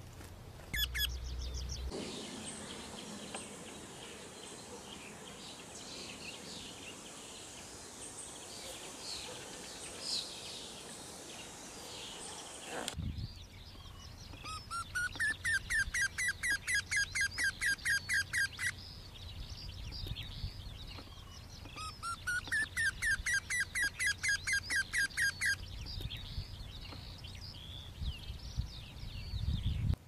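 Wild birds chirping and calling over a steady hiss. After a sudden cut about thirteen seconds in, a songbird sings twice, each song a fast series of repeated notes, about four a second, rising in pitch and lasting about five seconds, with other birds chirping behind.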